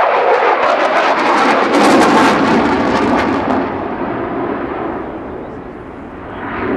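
Eurofighter Typhoon's twin Eurojet EJ200 turbofans passing in a display, loud jet noise with a harsh crackle that peaks about two seconds in, eases off, then builds again near the end.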